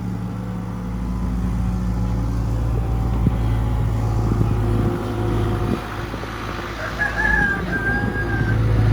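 Case skid steer's diesel engine running steadily, a low, even hum. A brief high tone sounds over it about seven seconds in.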